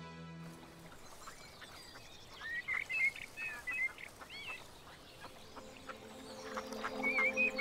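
Birds calling outdoors: short, high chirping phrases over a faint steady hiss of open air, clustered about three seconds in and again near the end. Soft background music fades out at the very start and fades back in during the second half.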